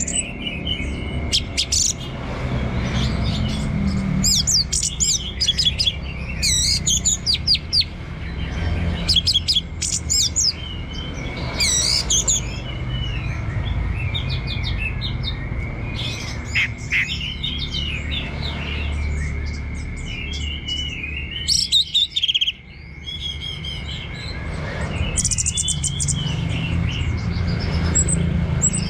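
Orange-headed thrush singing a long series of quick, varied warbling phrases with short pauses between them. A steady high-pitched whine and a low hum run underneath.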